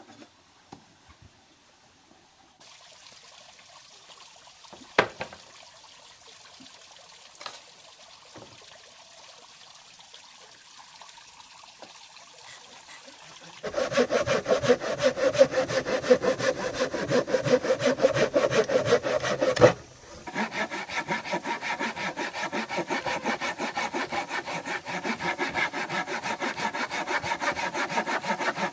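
Hand saw cutting through wood in rapid, steady strokes, starting about halfway through, pausing briefly and then carrying on. Before it, a couple of sharp knocks.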